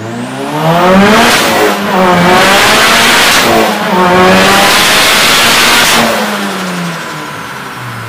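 Turbocharged 4G15 MIVEC engine of a Mitsubishi Lancer revving hard. Its pitch climbs three times, with a short break between climbs, then falls away about six seconds in.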